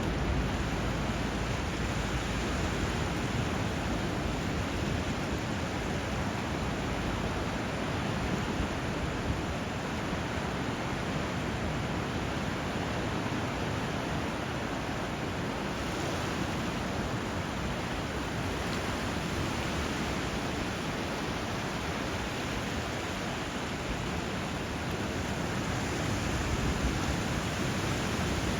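Steady rush of flowing water, an even hiss of river current and surf blended together.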